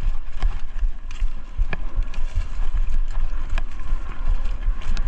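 Rumble of wind and movement on a chest-mounted GoPro's microphone while travelling along a trail, pulsing unevenly, with a few sharp knocks about a second apart.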